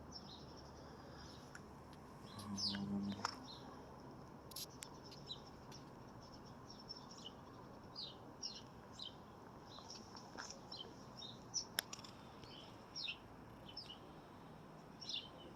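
Small birds chirping in the background: many short, high chirps scattered irregularly throughout, all faint. A brief low hum comes about two to three seconds in, and a couple of sharp clicks are heard later.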